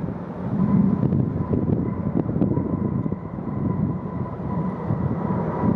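Jet airliner engines rumbling steadily, with a thin steady whine above the rumble.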